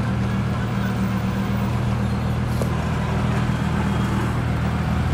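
Lamborghini supercar engines running at low, steady revs: a deep, even drone.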